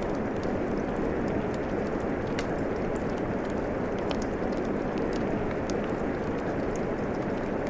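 Steady rain hiss mixed with a wood fire crackling, scattered small sharp pops and snaps over the even rush of the rain.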